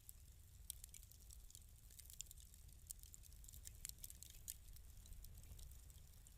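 Wood fire crackling in a fireplace: faint, irregular small snaps and pops over a low steady rumble.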